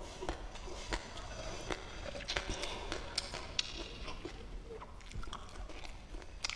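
Chewing and mouth sounds of someone eating rice with spicy boneless chicken feet, with many scattered sharp clicks.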